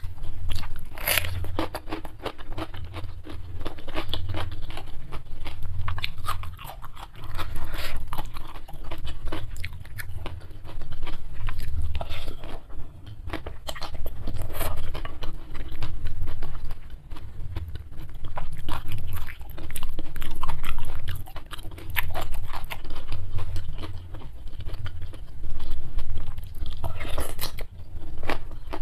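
Close-miked eating: steady wet chewing and smacking of spicy instant fried noodles with sardines, mixed with crisp crunching bites of raw cucumber and slurps of noodles.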